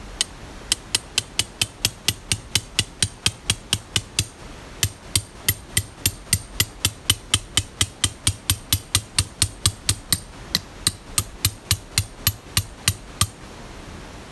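A hammer striking quickly and repeatedly, about four sharp blows a second, with a short pause about four seconds in and the blows stopping near the end.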